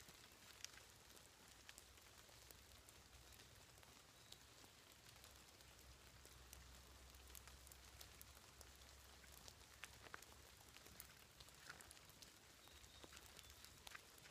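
Near silence: faint light rain, a soft hiss with scattered tiny ticks of drops.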